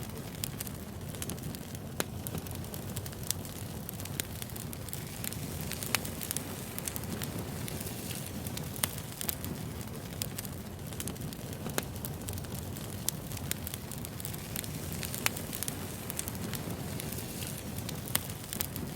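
Wood fire burning with a steady low rumble and frequent sharp, irregular crackles and pops of burning firewood.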